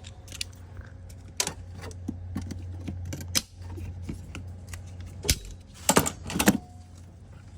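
Hand tools clinking and tapping on metal parts while a hose is worked loose in a car's engine bay: scattered sharp clicks and clacks, the loudest cluster about six seconds in, over a steady low hum.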